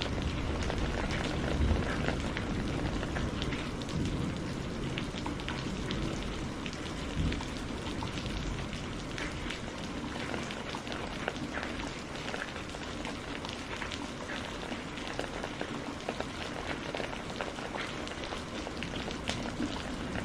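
Steady rain falling on a surface, with close individual drops ticking. A low thunder rumble dies away over the first several seconds.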